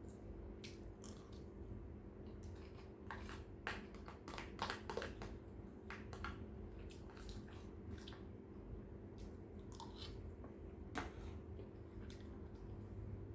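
A person chewing and eating a mouthful of shrimp fried rice: wet chewing and mouth noises with short clicks, busiest around four to five seconds in, over a steady low hum.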